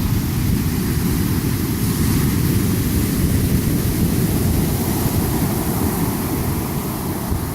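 Pacific Ocean surf crashing on a long beach, heard under a heavy, unsteady rumble of wind buffeting the microphone.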